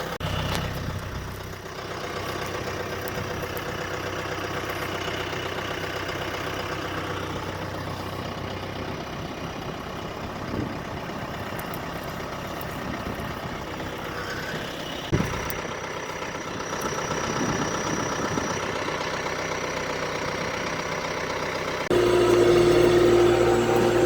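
Engine idling steadily, with one sharp knock partway through. Near the end the sound jumps abruptly to a louder engine with a steady hum.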